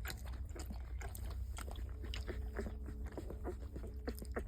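Mother dog licking her newborn puppies: irregular wet licking and smacking clicks.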